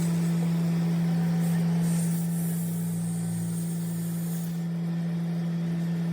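A machine runs with a steady, even hum. About two seconds in, a burst of hissing joins it and lasts about two and a half seconds.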